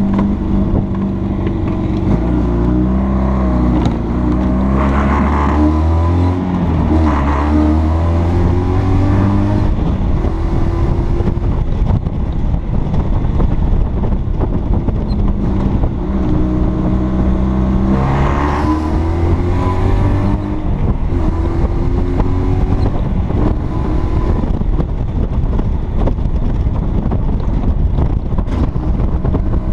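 The 1958 Berkeley SE492 microcar's three-cylinder two-stroke engine pulling the car along, its note climbing in steps as it accelerates through the gears, twice. Steady wind and road noise throughout, heard alone near the end.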